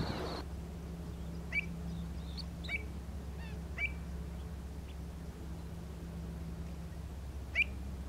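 A bird giving short, sharp chirps, three close together in the first four seconds and one more near the end, over a steady low hum.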